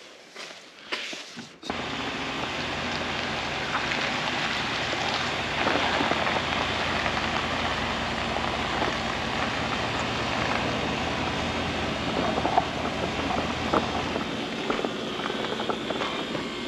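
Steady hiss of rain or water falling on the truck, starting suddenly about two seconds in, with a low rumble under it that drops away near the end.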